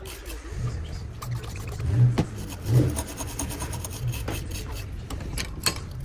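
Rubbing and rasping at close range, with a low hum that comes and goes and a few clicks.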